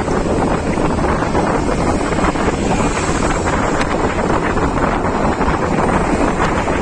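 Loud, steady wind buffeting the microphone: the rush of air against a camera carried along on a road ride.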